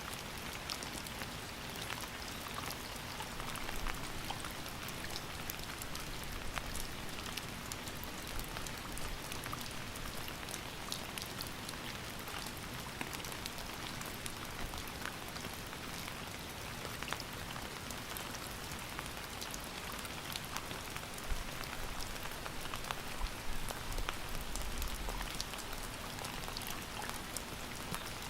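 Steady rain falling, a dense patter of individual drops over an even hiss, with a little low rumble swelling briefly near the end.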